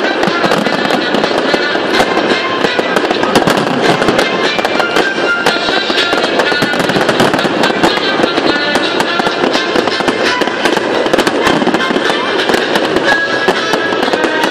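Large aerial fireworks display: many shells bursting at once in dense, continuous crackling and popping.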